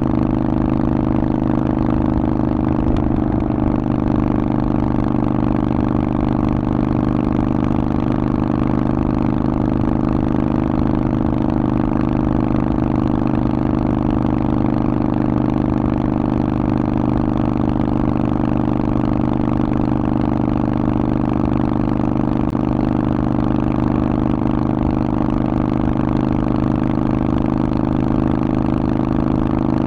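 Harley-Davidson Forty-Eight's air-cooled V-twin running through a Vance & Hines exhaust, held at one steady engine speed with no revving up or down.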